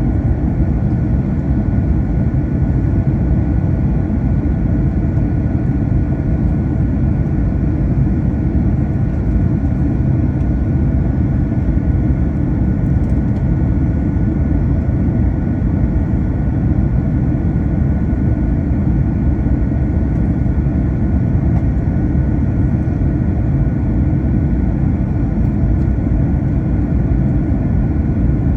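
Steady cabin noise inside an Airbus A321: a low, even rumble of engines and airflow with a few faint steady whining tones above it.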